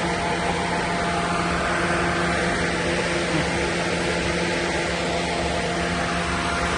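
Steady mechanical drone with a constant low hum, holding one pitch throughout with no revving.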